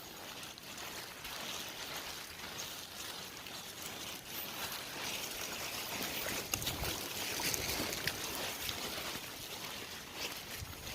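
Steady rushing water, an even hiss, with a few short knocks about six to seven seconds in.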